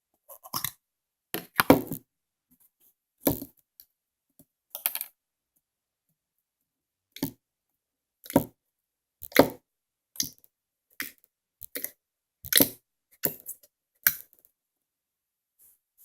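Slime being squeezed and pressed by hand, making short, sharp clicks and pops: about a dozen, spaced irregularly, with silence between them.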